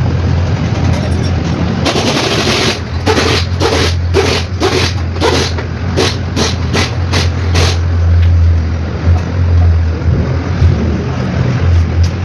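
Mitsubishi 4M40 four-cylinder diesel engine running with a steady low hum. From about two seconds in until about eight seconds, a run of about a dozen sharp bursts of noise rides over it at roughly two a second.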